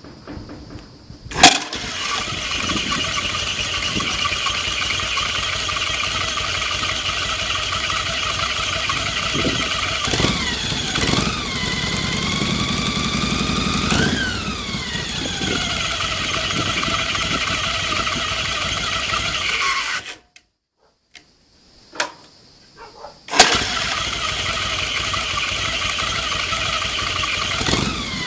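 Harley-Davidson Shovelhead V-twin engine starting, running with a couple of short revs, shut off and restarted, with a steady high squeal from its new belt once the engine is hot.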